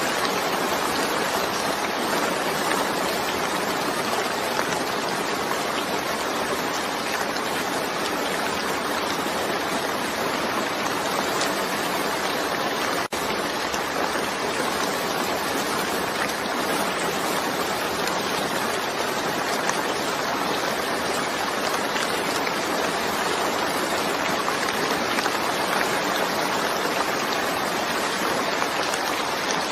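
Steady, even hiss of a rainstorm's rain, with a split-second dropout a little before halfway.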